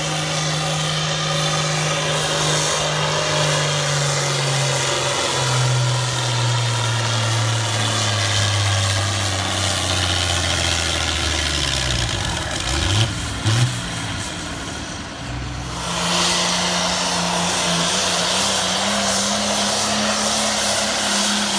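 Farm tractor engine at full throttle hauling a pull sled, its pitch sinking steadily as the load builds and the engine bogs down. About twelve seconds in the revs go uneven, with two short loud surges. After a brief drop in level it runs on steadily at a higher speed.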